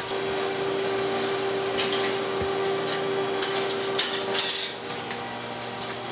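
Metal clinks and light knocks, like tools or parts being handled, over a steady hum that stops about four and a half seconds in.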